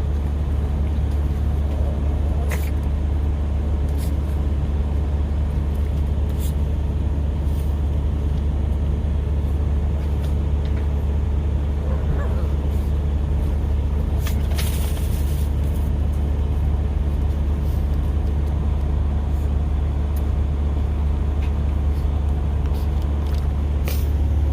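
Steady low drone of a semi truck's diesel engine running, with scattered short clicks and knocks.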